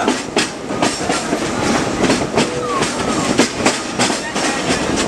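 Riding a narrow-gauge steam excursion train in motion: a steady rattle of the passenger cars, with irregular sharp clacks of the wheels on the track, several a second.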